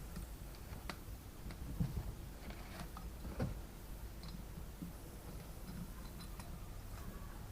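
A few scattered light clicks and taps of small metal parts being handled, the sharpest about two and three and a half seconds in, over a low steady hum.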